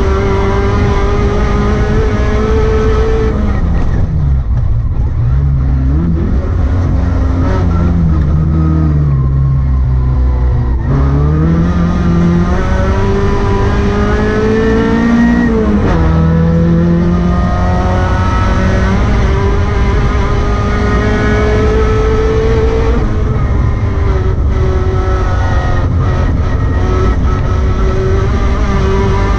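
Rally car engine heard from inside the car at speed over steady road noise. The revs dip and climb back twice in the first half, then rise through a gear change a little past halfway and stay high.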